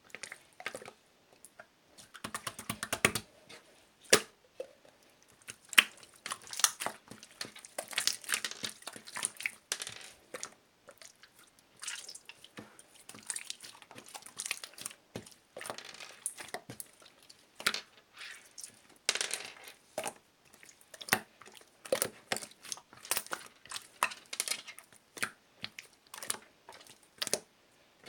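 Clear slime being squished and poked by hand, making a run of irregular wet pops, clicks and crackles.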